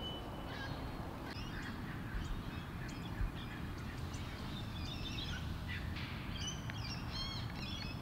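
Small birds chirping and whistling in short, scattered calls that grow busier near the end, over a low steady background rumble.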